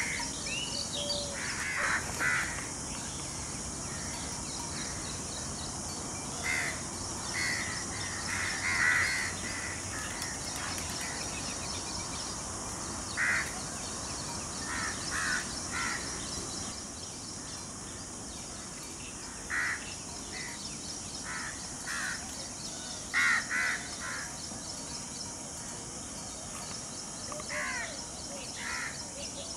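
Bird calls: short calls, mostly two or three at a time, every few seconds, over a steady high hiss.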